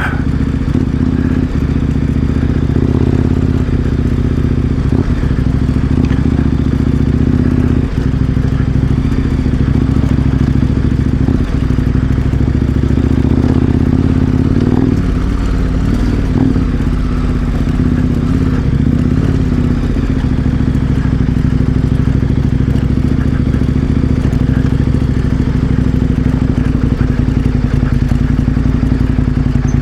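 KTM 1090 Adventure R's V-twin engine running steadily while riding a dirt road, with scattered knocks and clatter from the loose surface.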